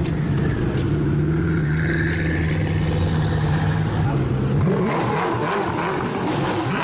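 Sports car engine running at a steady pitch, then climbing in pitch as it accelerates about five seconds in.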